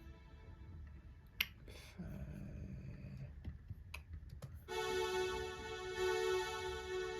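Music being auditioned in production software: a sharp click about a second and a half in and another near four seconds, then a sustained synth note or chord with many overtones that comes in loudly near five seconds and holds.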